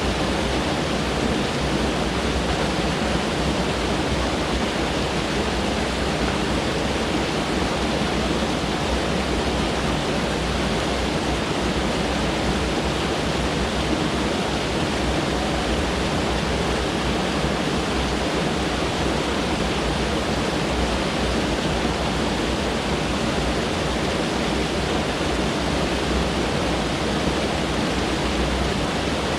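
Mountain stream rushing over rocks, a steady even roar of water.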